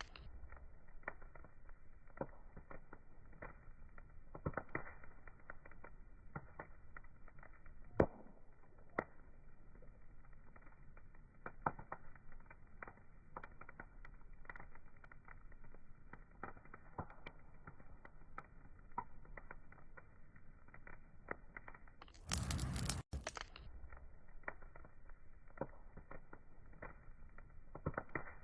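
Wood fire crackling, with irregular sharp pops and snaps over a faint steady hiss. A little past two-thirds through, a louder burst of hiss lasts just under a second and cuts off abruptly.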